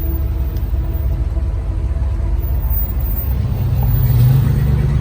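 A vintage car's engine running, growing louder from about three seconds in as the car comes near, over a steady low rumble.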